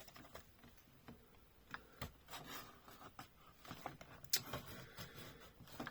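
Faint handling sounds of a packaged diecast toy: scattered light clicks and scrapes of plastic packaging being turned over in the hands, with a few sharper ticks about two seconds in and again past four seconds.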